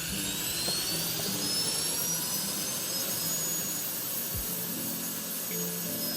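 Cordless handheld car-drying blower (機械堂 storm duck) running flat out in its strongest mode with its nozzle removed: a steady rush of air under a high motor whine that keeps rising slightly in pitch for the first few seconds, then holds.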